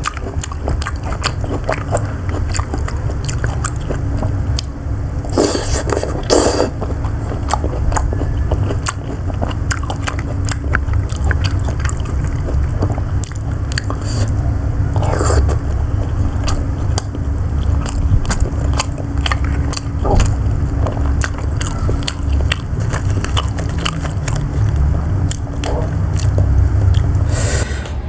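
Close-miked chewing and biting of siomay, with wet mouth sounds and many small clicks throughout. There are a few louder, noisier moments about five to six seconds in and again around fifteen seconds.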